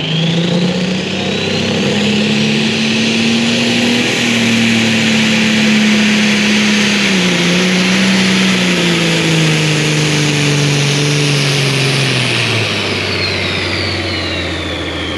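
Compound-turbocharged, alcohol-burning pulling tractor engine at full throttle under load, with a high turbo whine. Revs and whine climb at the start, the engine note dips briefly about seven seconds in, and both wind down over the last few seconds.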